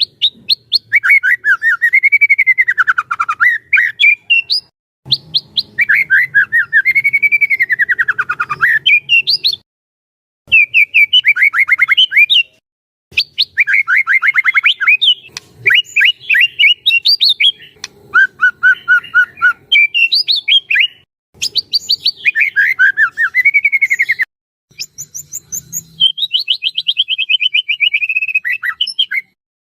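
White-rumped shama singing: loud phrases of rapid repeated notes that sweep down and back up in pitch, each phrase a few seconds long, with short pauses between them.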